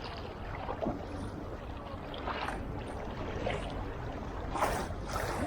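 Kayak paddle strokes: the blades dipping into the water in splashes a little over a second apart, with water trickling off them, over a steady low rumble.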